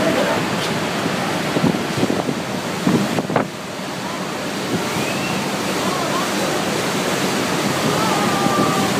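Steady rush of Niagara Falls' falling water and spray, with wind buffeting the microphone and indistinct voices in the background.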